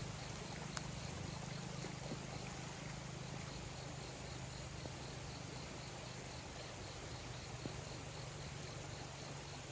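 Faint steady outdoor background: a low hum, with a faint, even, pulsing high chirr like an insect, and a few light clicks.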